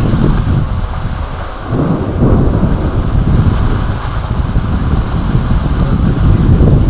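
Thunder rumbling over heavy rain, the rumble swelling again about two seconds in.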